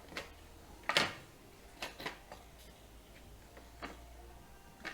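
Light plastic clicks and taps as a refrigerator's electronic control board is handled and pushed into its snap-together plastic housing: a few separate clicks, the loudest about a second in.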